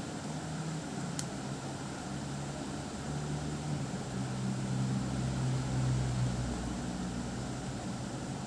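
A steady low mechanical hum with hiss, swelling for a few seconds in the middle, and a single sharp click about a second in.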